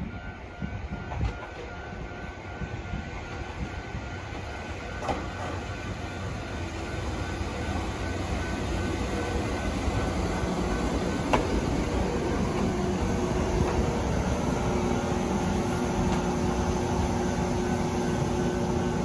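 Sangi Railway 801 series electric train (a former Seibu 701 series) pulling into a station. Its running noise grows steadily louder as it comes in and slows, with a sharp knock a little past halfway. Once it stands at the platform there is a steady hum.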